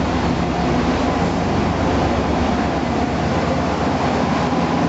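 1998 Chevrolet 2500's 5.7-litre 350 V8 running steadily, heard from inside the cab as an even, unchanging rumble.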